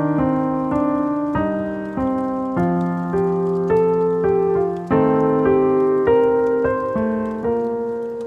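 Slow, wistful piano background music: chords and a melody line, each note struck and then fading away.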